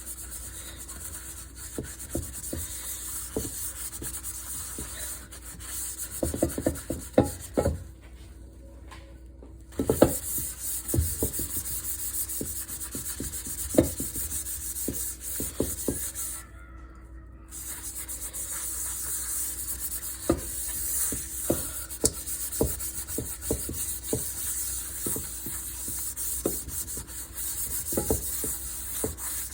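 A pan being scrubbed by hand: a steady rasping scrub with scattered knocks of the cookware. The scrubbing stops briefly about eight seconds in and again about seventeen seconds in.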